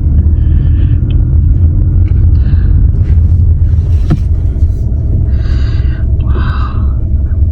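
Loud, steady low rumble, with a couple of brief hissing patches a little past the middle.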